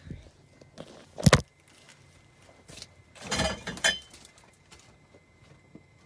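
A single sharp knock about a second in, then keys jangling and clinking a couple of seconds later; the truck's engine is not running yet.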